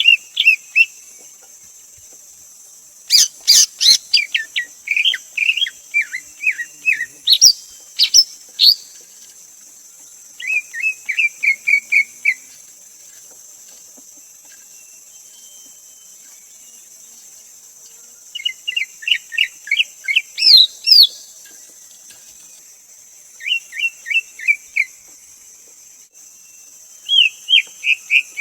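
Greater green leafbird singing: phrases of quick, bright whistled and chirping notes, each run lasting a second or a few seconds, repeated several times with pauses between.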